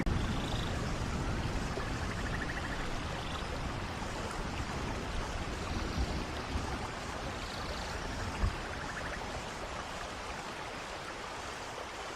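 Steady rushing of a waterfall's running water mixed with falling rain, an even noise with no breaks.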